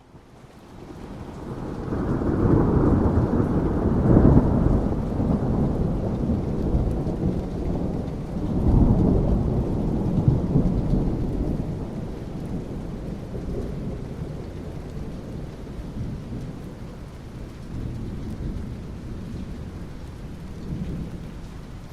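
Thunder rumbling over steady rain. The rumble swells up over the first couple of seconds, peaks about four seconds in, swells again about nine seconds in, then slowly dies away, leaving the rain.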